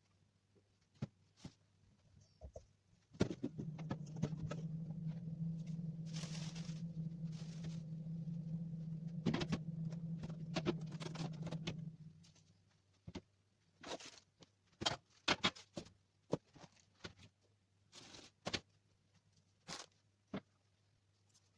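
Food containers and packages being handled and set down on refrigerator shelves, a run of scattered clicks and knocks. A steady low hum starts suddenly about three seconds in and stops about nine seconds later.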